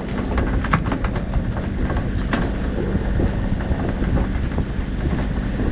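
Wind buffeting the microphone in a heavy low rumble over a steady low hum from the boat's motor, with scattered light clicks and knocks of the rigging and deck gear.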